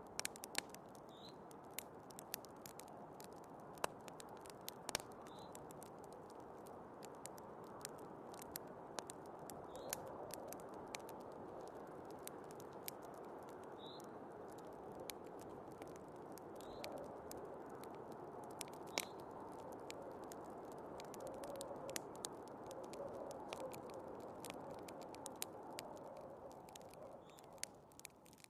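Wood fire crackling with frequent sharp pops over a steady, soft rush of snowstorm wind.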